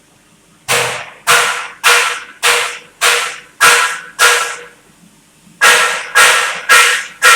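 TIG welding arc hissing in rhythmic pulses, about one and a half a second, each starting sharply and fading. There are seven pulses, a pause of about a second, then the pulsing starts again.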